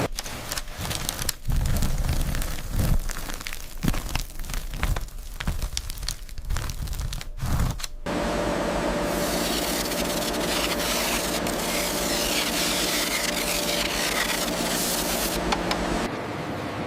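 Production-line machinery: irregular clattering and knocking for about eight seconds, then a steady mechanical hum with hiss, which changes near the end.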